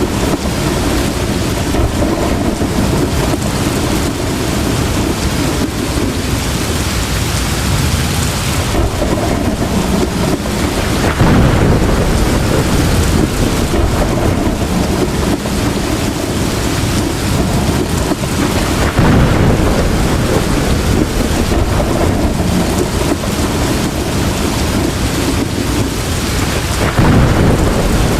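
Heavy rain pouring steadily, with low rumbles of thunder swelling up three times.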